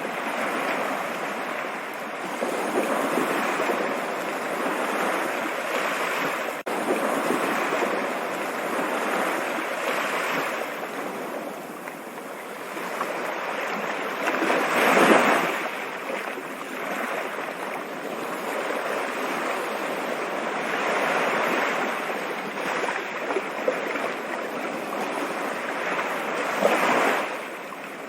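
Running water of a stream, a steady rushing hiss that swells and eases, loudest about halfway through.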